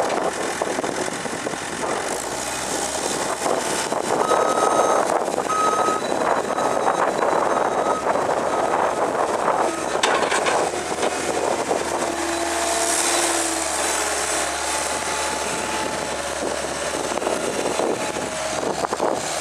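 Caterpillar 272C skid steer's diesel engine running, with its backup alarm beeping several times about four to eight seconds in.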